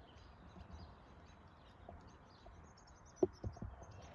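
Small birds chirping over faint outdoor background noise, with a short cluster of sharp thumps near the end.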